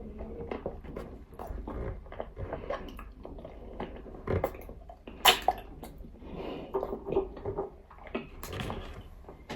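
Nzu, a dry edible clay, being bitten and chewed close to the microphone: a run of short, dry crunches and crackles, with one sharp snap about five seconds in.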